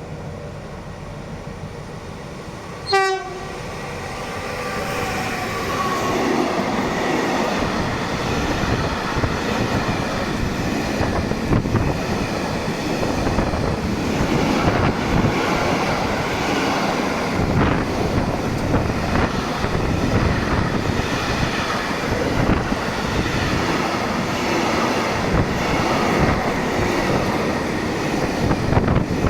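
A train's horn gives one short toot about three seconds in, then a freight train runs through the station, its wagons rumbling and clattering over the rails for the rest of the time.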